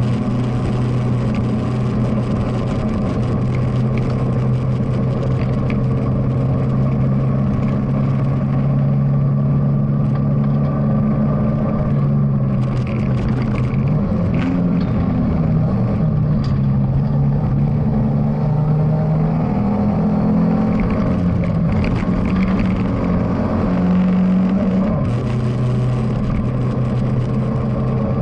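BMW E30 316i's four-cylinder engine pulling hard, heard from inside the cabin. It holds steady revs at first, then rises and falls with throttle and gear changes from about halfway in, and settles back to steady revs near the end.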